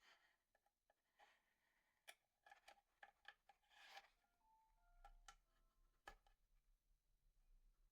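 Near silence, with faint scattered clicks and brief rubbing sounds.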